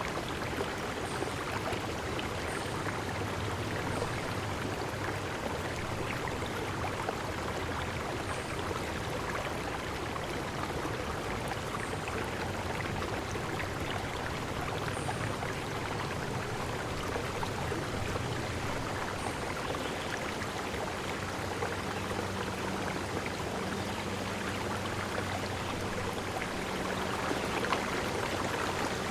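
Steady rush of a flowing stream, with faint short high bird chirps every few seconds.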